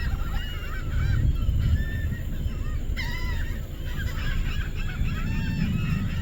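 A large flock of geese honking, many short calls overlapping continuously, over a low rumble.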